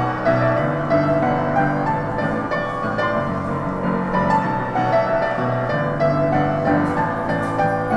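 Solo piano playing a brisk melody with many quick notes over a moving bass line.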